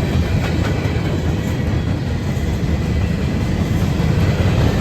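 Empty gondola cars of a long freight train rolling past: a steady noise of steel wheels on the rails.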